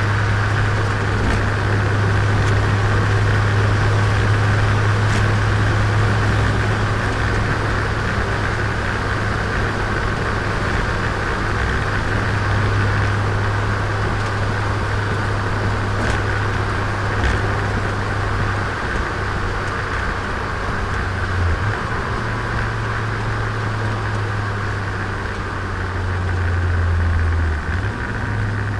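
Turbocharged Nissan Micra engine running steadily under way, with tyre and wind noise. Its low drone shifts in pitch twice, about two-thirds of the way in and again near the end.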